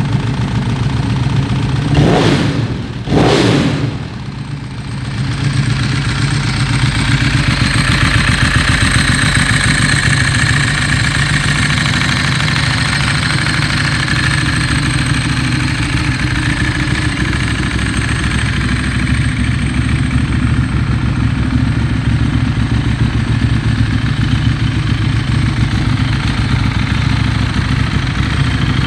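Ducati Streetfighter 1098 S's 1099 cc L-twin engine with a full Termignoni exhaust, just started. It is blipped twice, about two and three seconds in, then settles into a steady idle.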